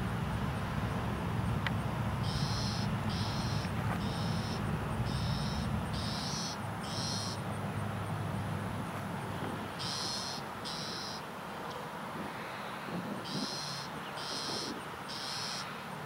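A bird calling in bouts of short, high notes, about one and a half a second: seven in a row, then two, then three. A low rumble runs under the first six seconds.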